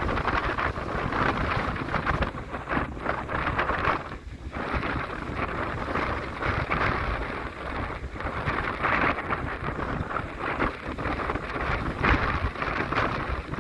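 Wind buffeting the microphone on a moving harbour ferry, with the rush of sea water and a low rumble beneath, gusting up and down with a brief lull about four seconds in.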